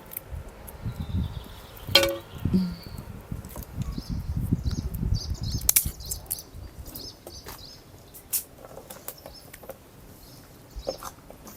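Small birds chirping in short calls from about halfway through, over scattered clicks and knocks of things being handled, with a low rumble in the first half.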